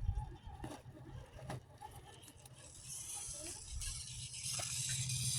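Radio-controlled crawler trucks driving over rough ground: a few knocks and rattles early on, then a steady electric motor and gear whir with crunching tyres that grows louder about halfway through.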